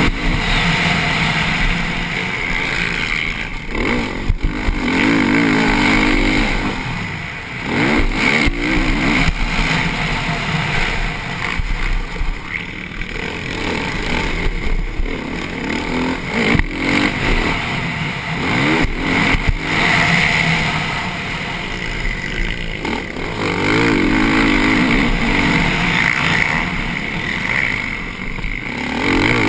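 TM Racing motocross bike engine heard onboard, revving up and down over and over as the rider accelerates, shifts and backs off through a lap of a dirt track. Scattered knocks from the bike jolting over bumps are mixed in.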